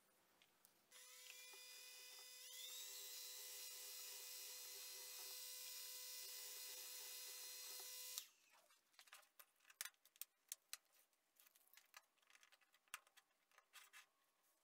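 A small electric tool motor starts about a second in, steps up in speed shortly after, runs steadily with a high whine, then cuts off suddenly; light clicks and taps of handling follow.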